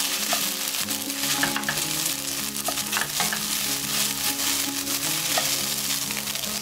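Fried rice sizzling in an oiled frying pan while a spatula stirs and turns it, a steady crackling hiss with scattered small ticks and scrapes.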